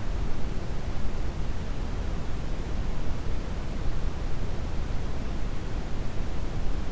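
Brown noise: a steady, deep, even hiss, heaviest in the low end and thinning toward the highs.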